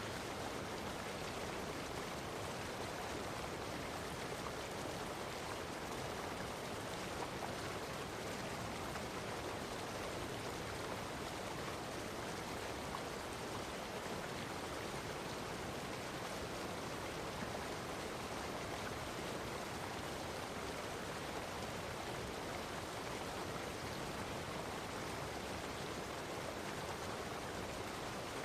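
Running water from a stream, a steady, even rushing and babbling.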